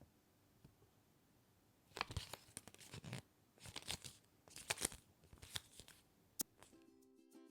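Packaging being opened by hand: irregular crinkling and tearing in a run of bursts from about two seconds in, ending with a sharp click. Ukulele-like music starts just before the end.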